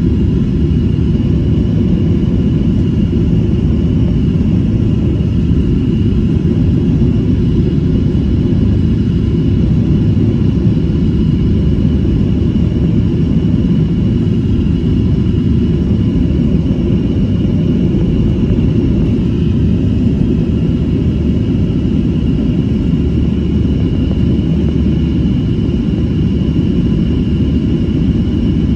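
Cabin noise of a Boeing 737 jet airliner in flight: a steady, loud rumble of engines and airflow, with a faint steady high whine above it.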